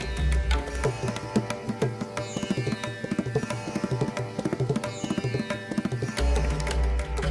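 Indian-style instrumental background music: plucked strings over fast hand-drum strokes. About a second in the deep bass drops away, leaving a dense run of quick drum strokes, and it comes back near the end.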